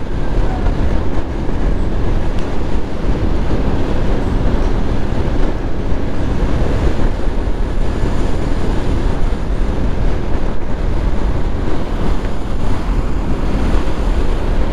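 Steady wind noise on the microphone of a motorcycle moving at speed, with the road and engine noise of the ride underneath.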